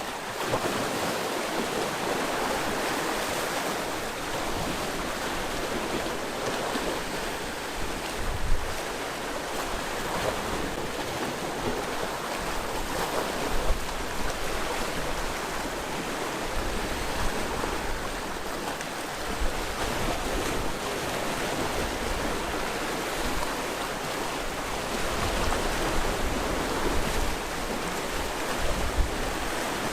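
Sea waves washing against a rocky shore in a steady rush, with a few low thumps of waves striking the rocks and some wind on the microphone.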